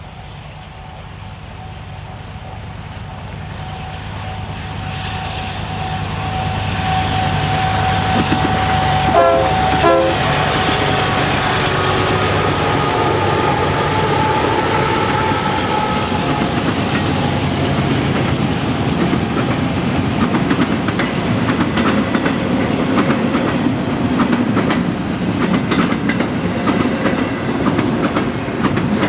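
Union Pacific intermodal freight train approaching and passing, its diesel locomotives working under power and growing louder over the first several seconds. Two short horn toots come about nine and ten seconds in, then the double-stack container cars roll by with a steady clickety-clack of wheels over the rail joints.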